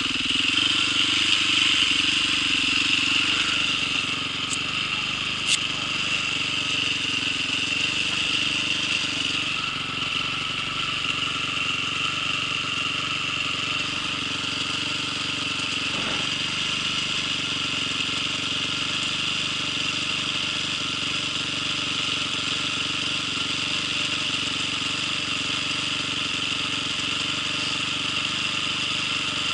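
Vehicle engine running at a steady speed, with a steady high whine over it.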